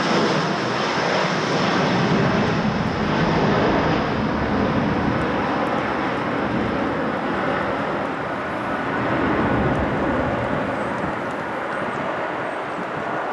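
Airbus A320 jet airliner's turbofan engines on approach: a steady jet rumble with a faint high whine that fades as the sound slowly grows quieter.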